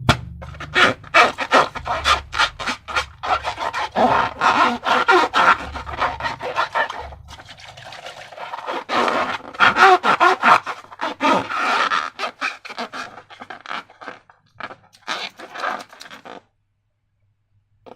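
Slime being squeezed and worked by hand: a rapid run of sticky squelches and clicks that thins out after about twelve seconds and cuts to silence near the end.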